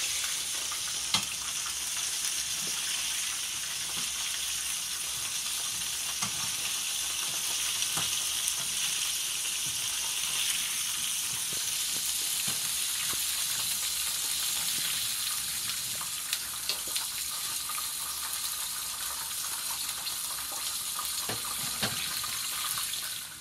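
Battered chicken nuggets sizzling steadily in hot oil in a frying pan, with a few sharp clicks and pops scattered through the hiss.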